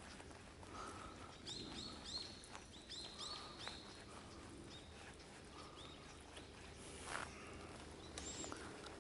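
Faint bird calls: a quick series of short, high chirps, thickest about one and a half to four seconds in, with a few scattered lower notes and one more high call near the end. A couple of faint clicks fall in between.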